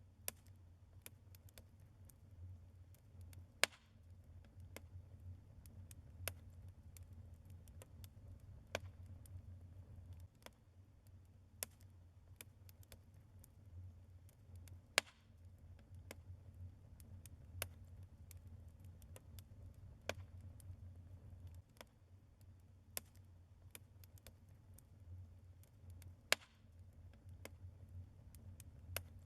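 Logs burning in a fireplace, crackling faintly. There are irregular pops and snaps, a few of them sharper and louder, over a low steady rumble of the fire.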